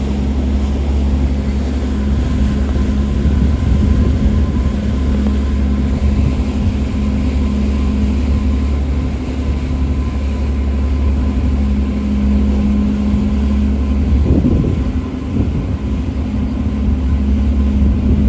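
Steady, loud engine drone with a constant low hum and a few steady tones above it.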